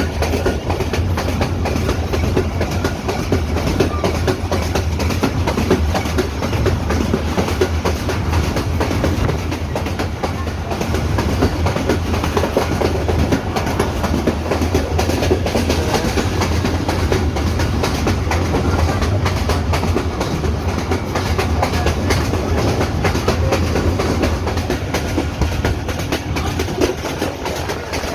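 Passenger train running steadily along the track: a constant low rumble with the continuous clatter of wheels over the rails.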